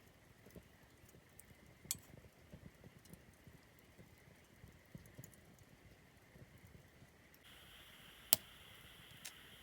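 Wood campfire crackling faintly: scattered small ticks and pops, with a sharper pop about two seconds in and a louder snap near the end. A faint steady hiss joins about three-quarters of the way through.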